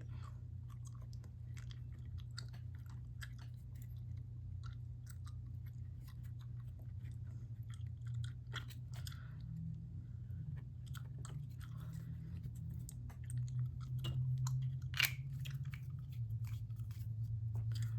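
Small handling noises of model rocket parts being worked by hand: scattered soft clicks, taps and scratchy rustles of cardboard tube and small parts, busier and louder about three quarters of the way through with one sharper click, over a steady low hum.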